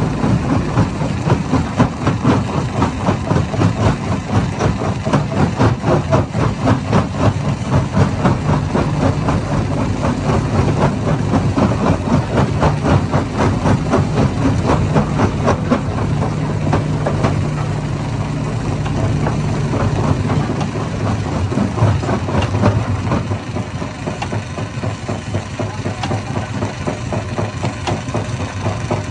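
Hammer stone crusher running: a steady heavy machine drone with a fast, even pulsing, easing off a little about three-quarters of the way through.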